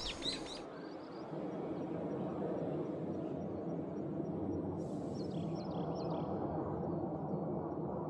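Steady outdoor background noise with a few short, high bird chirps at the very start and again about five seconds in.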